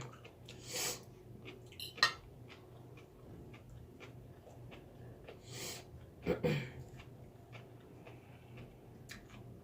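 Quiet eating at the table: a spoon and fork clicking against a bowl and plate, with scattered sharp clicks, two short noisy bursts near the start and the middle, and a brief voiced sound a little after six seconds.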